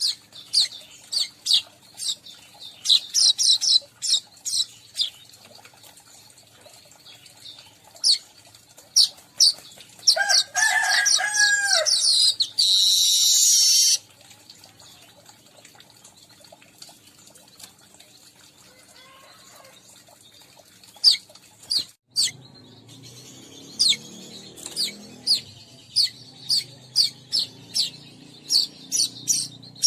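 Weaverbirds calling: bursts of sharp, high chirps and a fast chattering run that ends in a loud hissing buzz about halfway through, then more quick chirps.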